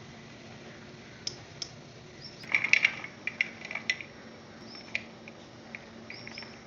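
Light clicks and clinks of small hard things against kitchen dishware, a few scattered at first and a quick cluster about two and a half seconds in, then a few more.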